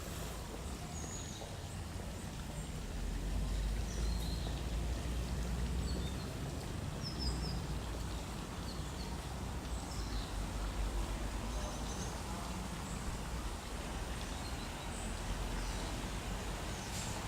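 Scattered short, high bird chirps, some in quick little runs, over a steady low rumble of outdoor background noise.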